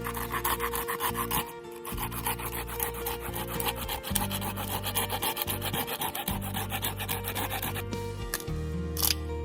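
Fast, steady scraping strokes on wood over background music with low sustained chords; the scraping stops about eight seconds in, and a couple of sharper scrapes follow near the end.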